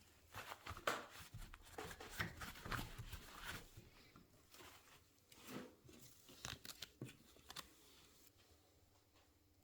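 Hand-handling noise at a workbench during a motorcycle brake caliper rebuild: a busy patch of rustling, crinkling and light clicks in the first few seconds, then scattered clicks and taps until near the end.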